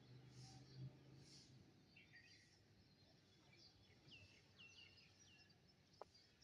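Faint songbird chirps: short notes that slide downward, one about two seconds in and a run of several from about four seconds on, over low background noise. A single click comes near the end.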